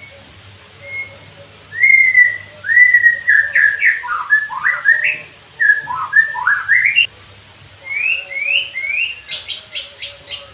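White-rumped shama singing: a string of loud, clear whistled notes that slide up and down, ending in a fast run of short, sharp repeated notes.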